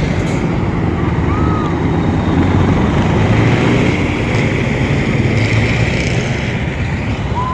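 Heavy truck engine and road noise, a steady loud rumble, with two brief faint squeaks, one about a second in and one near the end.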